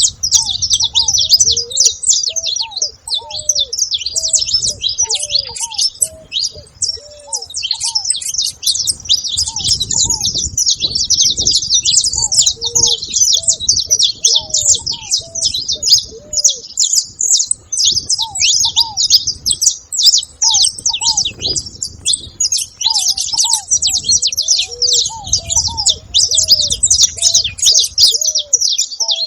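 A flock of saffron finches chattering together in a dense, continuous high twittering, with lower, short arched call notes repeating underneath.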